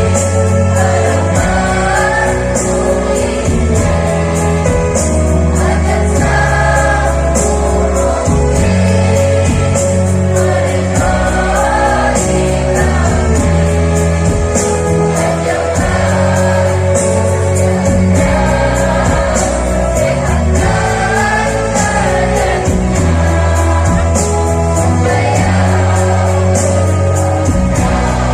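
School choir singing in unison over an instrumental accompaniment, with held bass notes that change every second or two and a steady, fast beat.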